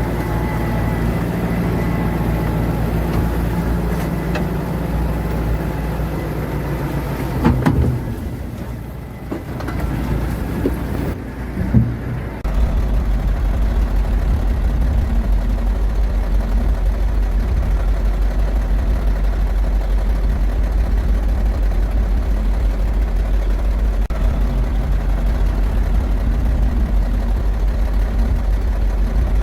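Heavy earthmoving-machine diesel engine running steadily, with a few knocks around eight to twelve seconds in, after which a deeper, steady low engine drone takes over.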